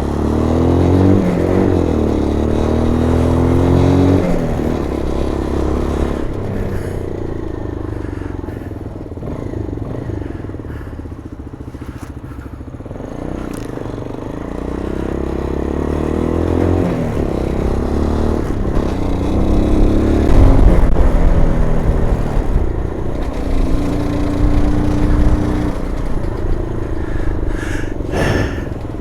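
The 125cc engine of an MGB ATX adventure motorcycle being ridden. Its revs climb and fall several times as it goes up through the gears. There is a short knock near the end.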